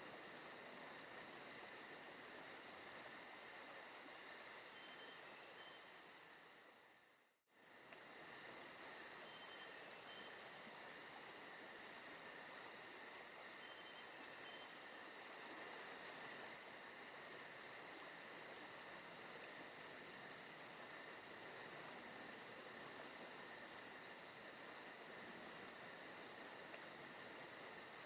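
Faint forest ambience of insects, likely crickets, chirping in a constant high trill with a fast steady pulse. About seven seconds in it fades away to silence and comes straight back.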